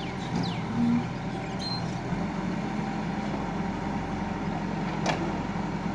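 JCB 3DX backhoe loader's Kirloskar diesel engine running steadily, its note shifting about two seconds in. A single sharp knock about five seconds in.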